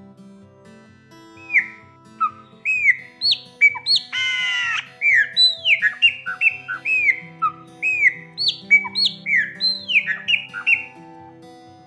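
Chopi blackbird (graúna) singing a quick run of short, arched whistled notes, with one loud harsh buzzy note about four seconds in. Soft background music plays underneath.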